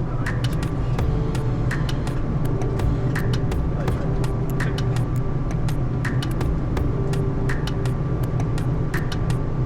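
Boeing 787 on its landing approach: a steady low rumble, with scattered clicks and a faint short tick about every second and a half.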